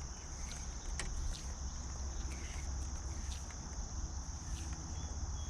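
Steady high-pitched insect chorus buzzing without a break, over a low steady rumble, with a few faint ticks.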